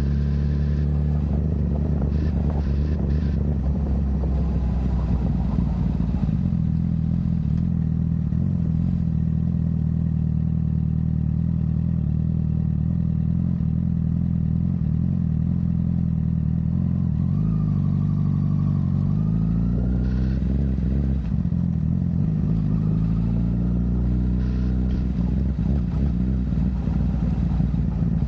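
Honda CBR1000RR inline-four running through a Yoshimura full exhaust while riding at a fairly steady engine speed. About two-thirds of the way through, the revs drop briefly and then climb again.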